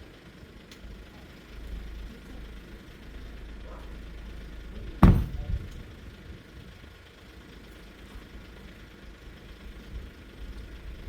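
A truck engine running as a low rumble, with one loud bang about five seconds in and a smaller knock just after it.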